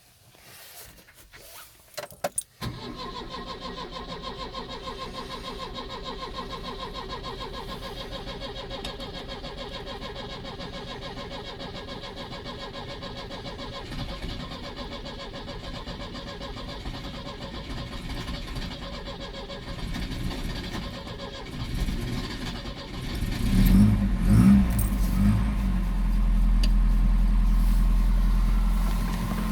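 Cold start of a Volvo 245DL engine. After a few clicks it starts about three seconds in and runs steadily, then surges loudly a few times near the end and settles into a louder, steady idle.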